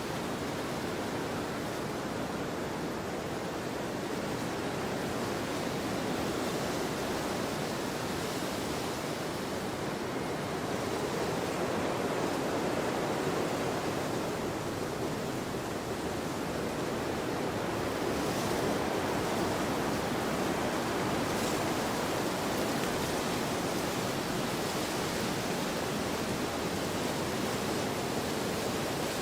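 Wind blowing across a field: a steady rushing noise that swells a little now and then.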